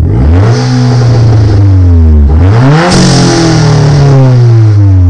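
Dodge Caliber SRT-4's turbocharged 2.4-litre four-cylinder engine revved twice through its exhaust. The revs climb quickly and hold, dip about two seconds in, climb sharply again and hold, then fall away near the end.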